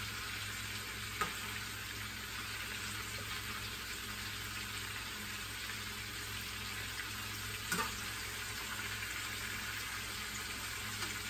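Chicken cordon bleu frying in oil in a skillet: a steady sizzle, with two short knocks, about a second in and near eight seconds in.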